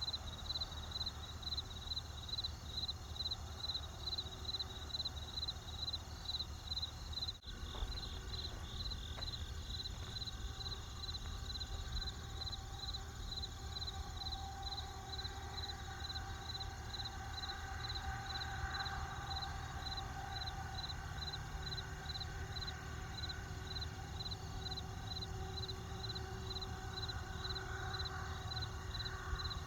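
Crickets chirping in a steady rhythm, about two high chirps a second, over the low, continuous rumble of a campfire. The sound briefly cuts out about seven seconds in.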